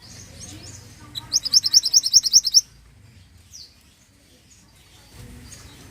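Mantenan songbird singing a fast, high trill of about a dozen rapid notes lasting just over a second, followed a second later by one short downward chirp.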